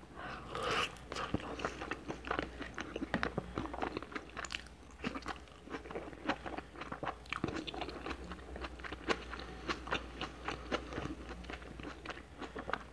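Close-up chewing and biting of a cheese-topped, cheddar-stuffed hamburger patty eaten by hand, full of quick irregular mouth clicks.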